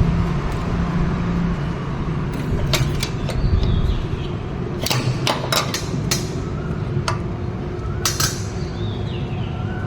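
Steady low rumble like a running vehicle, with a scatter of sharp clicks and knocks from about three seconds in.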